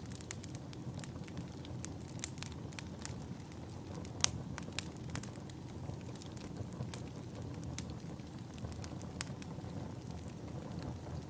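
Wood fire crackling: irregular sharp pops and snaps over a steady low noise of the burning logs, with the loudest pop about four seconds in.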